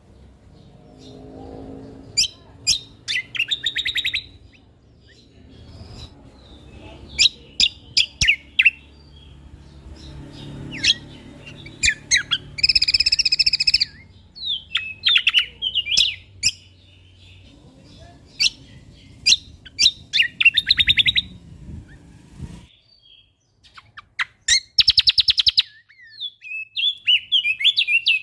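A songbird singing in bursts of sharp chirps and quick rattling trills, a varied 'masteran' song used to train caged songbirds. A faint low rumble sits underneath and cuts off suddenly near the end.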